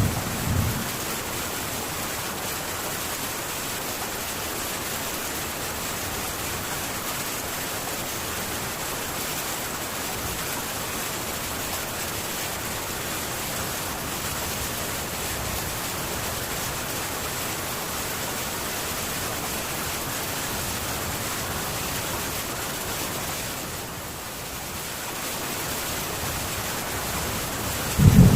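Heavy rain drumming steadily on a metal tin roof, an even hiss. A low rumble of thunder fades out in the first second, and another rumble of thunder starts right at the end.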